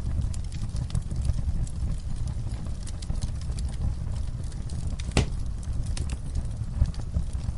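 Wood fire burning: a steady low rumble of flames under frequent sharp crackles and pops from the burning wood, with one louder pop about five seconds in.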